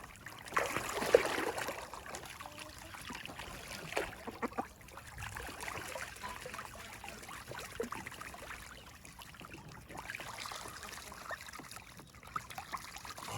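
Young ducks splashing and paddling in a water-filled bathtub: water trickling and sloshing with many small splashes, loudest about a second in.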